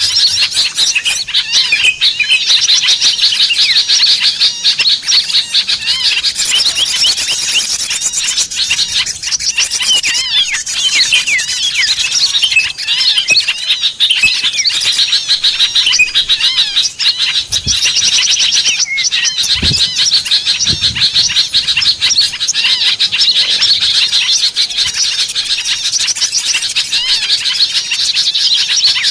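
A dense, unbroken chorus of many small songbirds chirping and twittering rapidly, a noisy, agitated flock sound used as a lure recording to draw wild small birds down.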